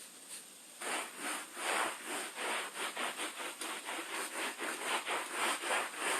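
A brush scrubbing a rubber anti-fatigue floor mat to degrease it, in even back-and-forth strokes about three a second, starting about a second in.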